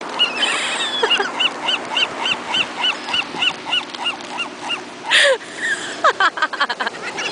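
Gulls calling: one gull gives a long run of repeated yelping notes, about four a second, fading toward the end, then a loud harsh squawk with a falling tail about five seconds in, followed by a quick run of clicks.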